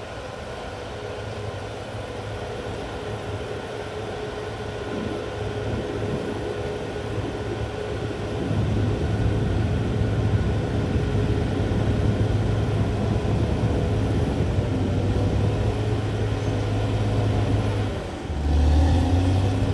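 CAT D6R XL crawler bulldozer's diesel engine running steadily and getting louder about eight seconds in. Near the end it drops briefly, then comes back louder at a lower pitch.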